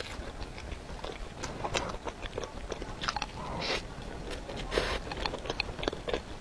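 Close-miked eating: a person biting and chewing a spoonful of a pork-floss-topped dessert, with many small clicks and smacks from the mouth and a couple of brief crackly rustles in the middle.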